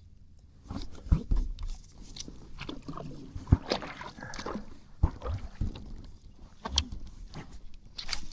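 Handling noise aboard an inflatable kayak while fishing: scattered clicks and rattles of gear, with a few dull thumps against the kayak and light water movement.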